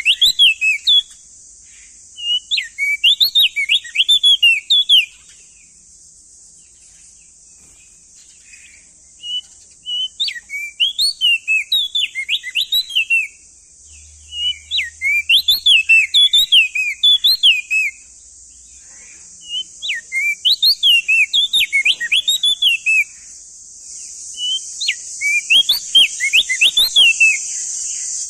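Male opior jambul (crested white-eye) singing: loud phrases of quick rising-and-falling whistled notes, each phrase lasting a few seconds, with short pauses between, about six phrases in all. A steady high hiss runs underneath, growing louder near the end.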